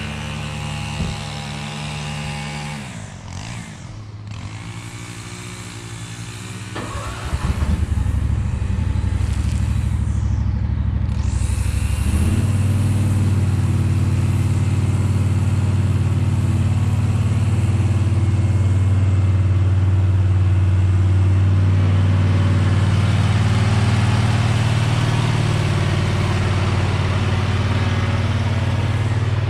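Husqvarna V554 stand-on zero-turn mower running during mowing. Its engine note drops a few seconds in, climbs back a few seconds later, and from about twelve seconds in runs steady and louder.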